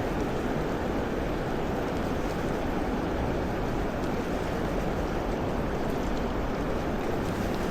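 Steady rushing of river water, an even wash of flowing current with no breaks.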